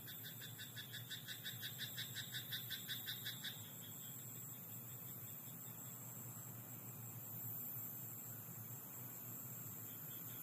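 Frog in a rice paddy calling a rapid run of croaks, about six a second, growing louder and then stopping about three and a half seconds in. After that there is only a faint, steady night background with a thin high hum.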